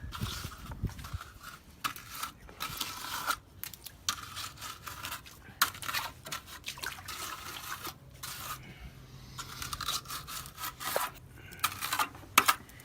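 Hand trowel scraping and smoothing stiffening wet concrete in irregular strokes, with the odd sharp tick of the blade.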